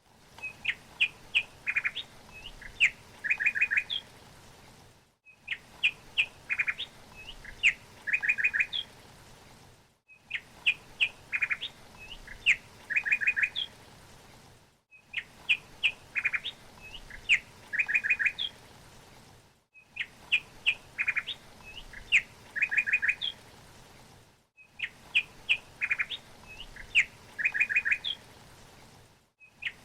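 A songbird singing a phrase of sharp chirps ending in a quick run of four or five notes, the same recording looped about every five seconds with a brief silent gap between repeats.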